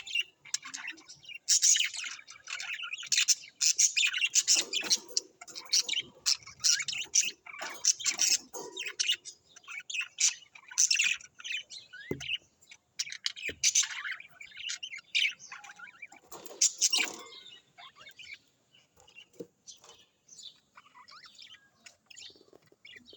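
Small cage birds, canaries and budgerigars, chirping and twittering together in a dense stream of quick, high chirps and trills. The chorus thins to scattered, quieter chirps about three-quarters of the way through.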